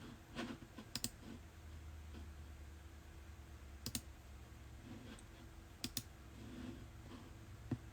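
Scattered sharp clicks at a computer, about five spread over eight seconds, over a low steady hum.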